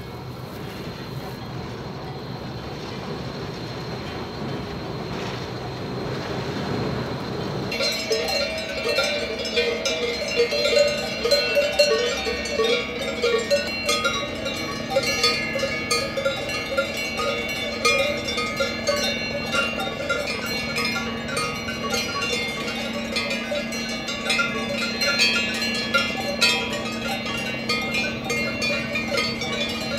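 A low steady rumble, then, from about eight seconds in, cowbells of several different pitches clanking irregularly, as from cattle grazing and moving about.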